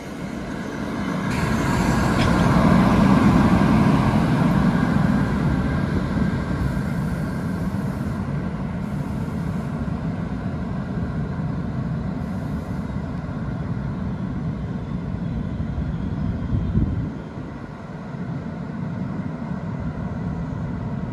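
NJ Transit ALP-46A electric locomotive passing at the rear of the train, pushing it, and moving away down the track. Its running noise is loudest a few seconds in, then settles into a steady lower rumble.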